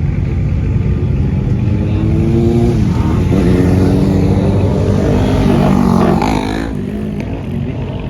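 Car engine revving hard over a steady low rumble, its pitch climbing twice: a short rise that breaks off about three seconds in, then a longer, louder climb that cuts off about six and a half seconds in.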